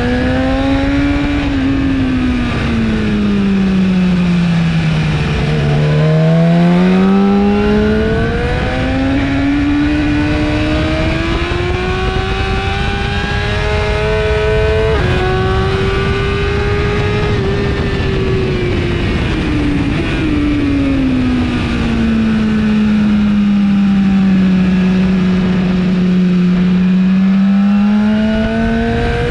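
A BMW S1000RR's inline-four engine through an Akrapovic exhaust, pulling hard on track: the engine note falls for a few seconds, climbs again, jumps at a gear change about halfway through, sinks, then rises once more near the end. Heavy wind rush runs underneath.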